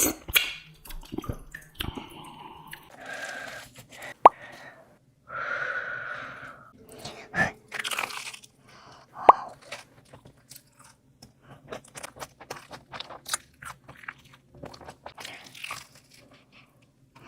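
Close-miked eating: a person biting and chewing crunchy food, with many sharp crunches and clicks, and a few longer noisy sounds in between.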